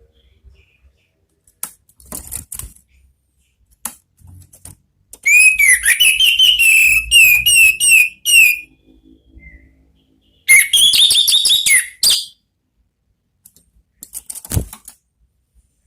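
Orange-headed thrush singing: two loud phrases of quick, sweet whistled notes, the first starting about five seconds in and lasting some three seconds, the second a shorter phrase near the eleventh second. Faint scattered clicks fill the gaps between the phrases.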